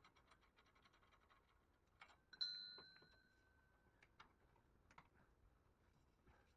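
Near silence with faint scattered clicks, and one short ringing ping about two and a half seconds in that fades out over about a second and a half.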